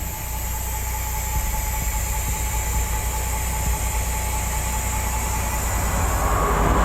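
Heavy truck's diesel engine idling, a steady low rumble with a steady high whine; a louder rushing noise builds about six seconds in.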